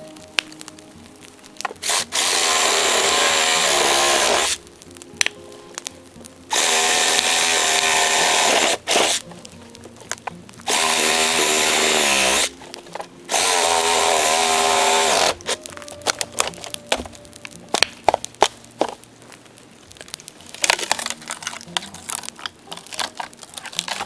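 A power tool runs in four bursts of about two seconds each, starting and stopping sharply with a wavering whine. After that come many sharp crackles and pops, typical of burning dead bamboo.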